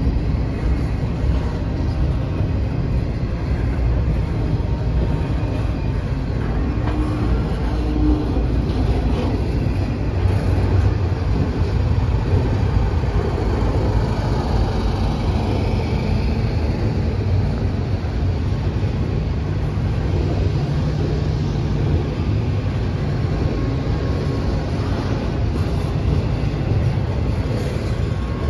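CSX intermodal freight train rolling by, a steady rumble of wheels on the rails.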